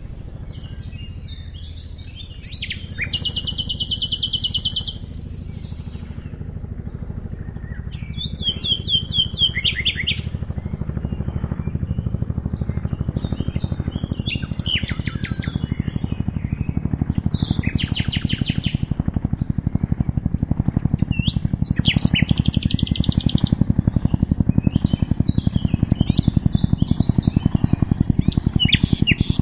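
Nightingales singing in short, varied phrases of rapid repeated notes and trills, a few seconds apart. Beneath them the rapid low rotor beat of a Chinook helicopter grows steadily louder.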